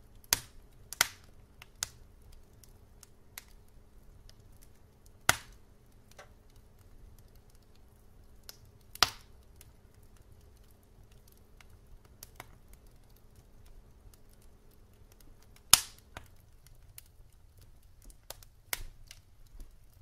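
Wood fire in a fireplace crackling: sharp pops at irregular intervals, the loudest about five and nine seconds in and again near sixteen seconds, over a low, steady rumble of flames.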